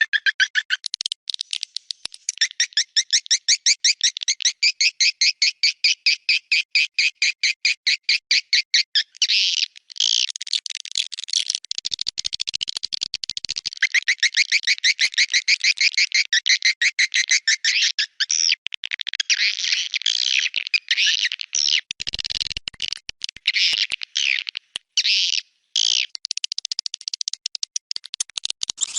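Swiftlet calls played as a lure sound for swiftlet houses: rapid trains of high chirps, about six a second, giving way about nine seconds in to denser, continuous twittering with brief breaks.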